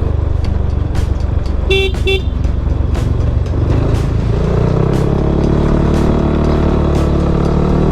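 Motorcycle riding on the road: steady engine and wind rumble, with two short horn beeps about two seconds in. The engine note rises in pitch in the second half as the bike picks up speed.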